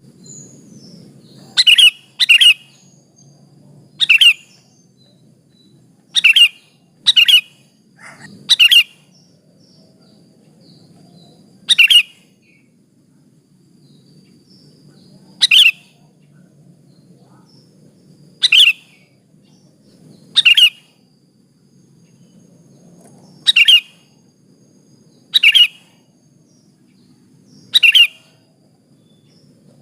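Sooty-headed bulbul (kutilang), a female per the recording's label, giving short sharp calls, about thirteen spaced irregularly one to four seconds apart, over a faint low background hum.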